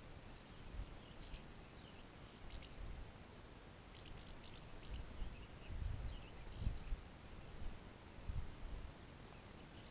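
Faint, short bird chirps scattered through, high-pitched, with low wind rumble on the microphone that gusts up in the second half.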